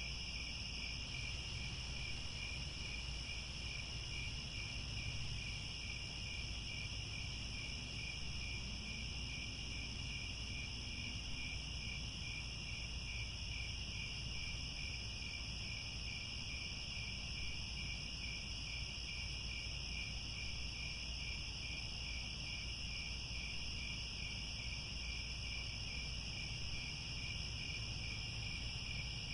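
Crickets chirping in a steady, unbroken chorus of high trills with a fine regular pulse.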